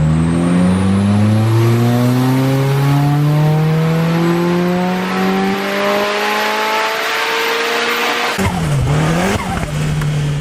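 Nissan CA18DET turbocharged 1.8-litre four-cylinder engine under hard throttle in one long pull, its note rising steadily for about eight seconds with a thin high whine climbing above it. It then lifts off suddenly, the pitch dipping and recovering, and settles to a steady lower note.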